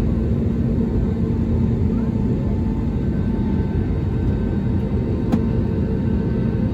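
Airliner's jet engines running, heard from inside the passenger cabin as a steady low rumble, with a single brief click about five seconds in.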